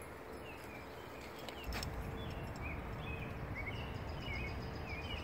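Bird chirping outdoors, a string of short high notes about twice a second, over a low rumbling outdoor noise, with one knock about two seconds in.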